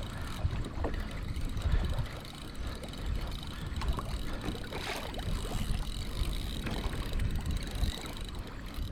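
Water slapping and lapping against a kayak hull, with wind rumbling on the microphone and scattered small knocks and ticks.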